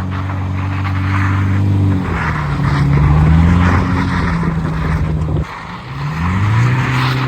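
Car engine revving under hard driving, its pitch steady at first, dropping about two seconds in, climbing again, cutting back sharply about five and a half seconds in, then rising and falling once more near the end.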